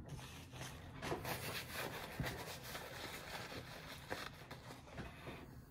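Close-up chewing of a mouthful of food, with crackly rustling and small clicks throughout as something is handled in the hands; the rustling stops abruptly near the end.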